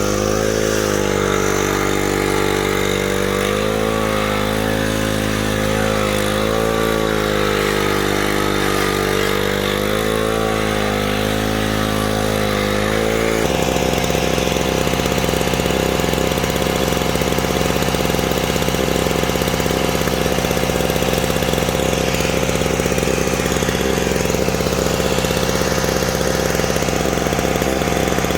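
An engine running steadily at idle, its pitch wavering slightly. About halfway through, the sound switches abruptly to a different, steadier engine sound.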